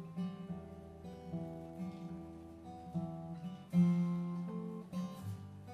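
Acoustic guitar playing the instrumental introduction to a folk song, sustained chords and picked notes changing every second or so, with a louder chord struck a little before the four-second mark.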